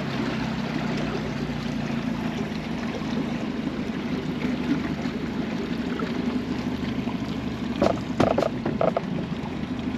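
A motorboat running on the water: a steady engine hum under a wash of water and wind noise, with a few short knocks about eight seconds in.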